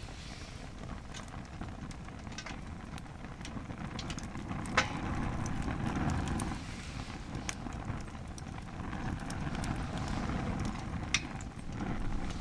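Wood fire burning hard in a fire stand heaped with split firewood: scattered sharp crackles and pops over a low rushing roar of the flames that swells twice.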